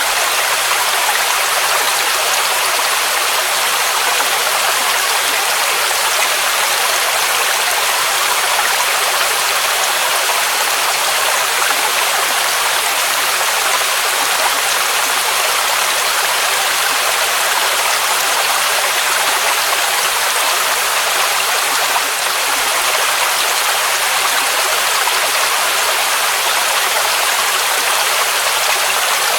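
Mountain waterfall rushing steadily, an even hiss-like roar of falling water with little deep rumble.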